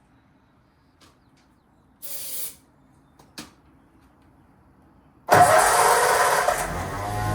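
A short hiss and a click, then about five seconds in a flathead Ford V8 suddenly starts up and keeps running loudly, its spark plugs freshly cleaned of carbon.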